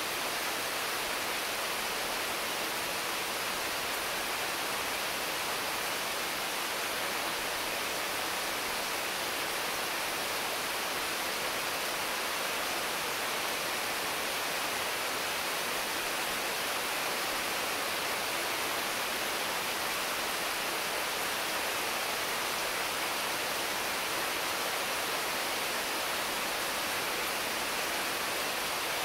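Steady, intense rain pouring onto mango, papaya and other tree leaves, an even hiss without single drops standing out.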